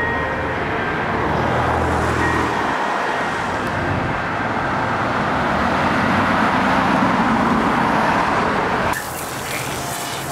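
Road traffic: a steady rush of passing vehicles, swelling around seven seconds in and cutting off abruptly near the end.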